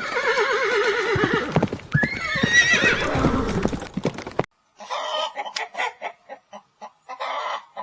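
Horse whinnying: a long neigh whose pitch wavers quickly, jumps up about two seconds in and then falls away. It is followed by a run of short, sharp knocks.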